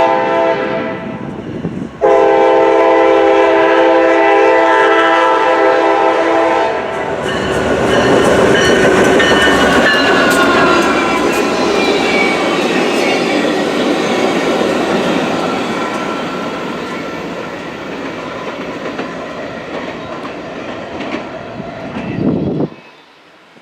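CSX track geometry train led by an EMD GP40WH-2 locomotive passing at speed: the horn sounds a shorter blast and then a long one, the locomotive rushes by with a falling pitch, and the clatter of the cars fades away.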